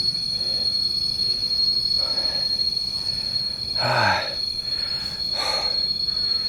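Constant high-pitched insect ringing from the jungle, one steady unbroken tone, with a hiker's heavy breaths every second or so and a falling sigh about four seconds in.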